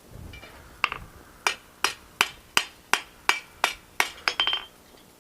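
Hand hammer striking hot steel on an anvil in a steady rhythm of a bit under three ringing blows a second, with a quick run of light taps about four seconds in.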